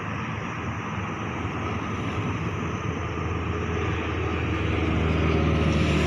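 Steady noise of a light military aircraft's turbine engine, with a low hum that grows louder over the last couple of seconds as the aircraft draws closer.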